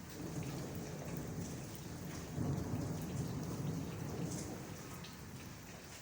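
Heavy rain falling steadily with scattered drips, under a low thunder rumble that swells about two seconds in and slowly fades.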